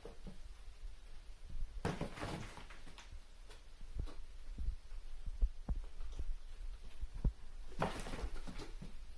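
Cats playing around a cat-tank toy: scattered soft thumps and knocks, with a brief scratching rustle about two seconds in and another near the end.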